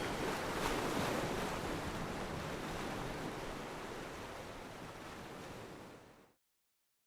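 Steady rushing noise of the sea, fading out and cutting to silence about six seconds in.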